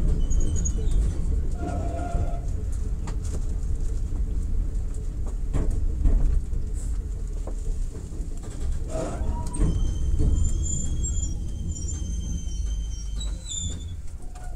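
Enoden electric train heard from inside the car, its low running rumble fading as it slows to a stop. A thin high squeal sounds in the last few seconds as it brakes.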